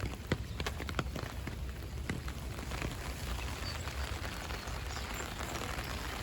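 Rain pattering on an umbrella overhead. Single drops tap sharply and often in the first couple of seconds, then settle into an even patter.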